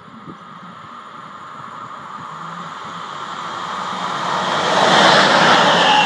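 DB class 120 electric locomotive hauling Intercity coaches, approaching and passing close by: a rushing rail and wheel noise that grows steadily louder and becomes loud about five seconds in as the locomotive goes past.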